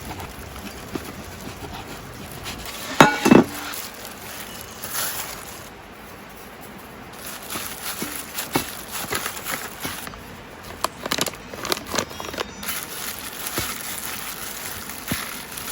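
Scattered light clinks and knocks, with a louder short sound about three seconds in.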